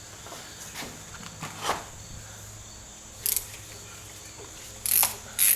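Ratchet wrench clicking in short, loud strokes near the end as the suspension pan member's nuts are loosened, after a few lighter tool-handling clicks and a brief rattle.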